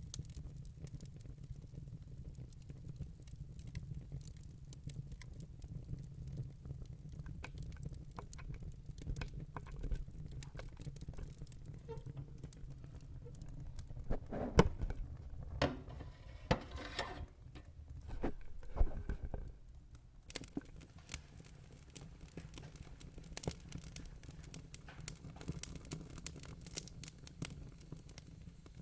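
Wood fire burning in a fireplace: a steady low rumble of flames with scattered crackles and pops, and a run of louder cracks and snaps about halfway through.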